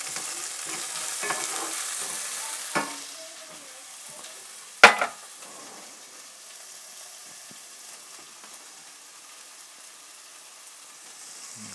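Food sizzling as it fries in hot olive oil in a pan, loudest over the first few seconds and then settling to a lower sizzle. A single sharp knock about five seconds in, with a few fainter clicks earlier.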